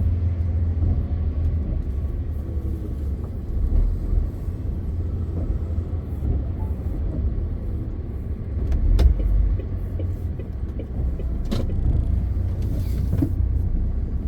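MAN TGX 520 truck's straight-six diesel running at cruise with steady road noise, a continuous low rumble. A few short knocks are heard at intervals, about nine, eleven and thirteen seconds in.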